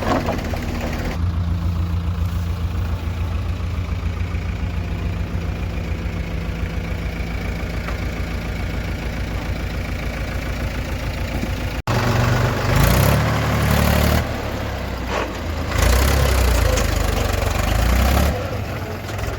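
Diesel engine idling with a steady, even pulse. About twelve seconds in the sound cuts abruptly and the engine comes back louder and rougher, its level rising and falling.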